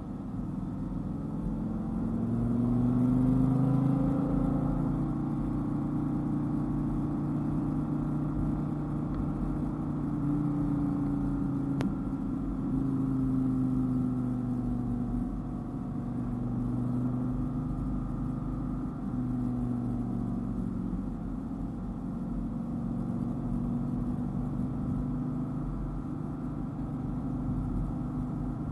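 Dodge Viper's V10 engine running under load at road speed, rising in pitch a few seconds in, then holding steady with a few brief dips and changes in pitch.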